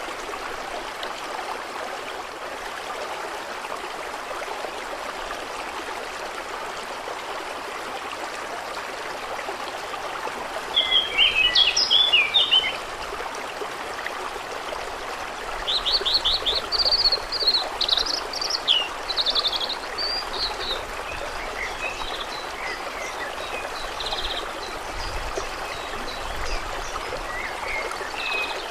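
Steady rush of flowing, trickling water with a songbird singing over it: a quick burst of song about ten seconds in, a longer run of trilled phrases a few seconds later, then scattered fainter chirps.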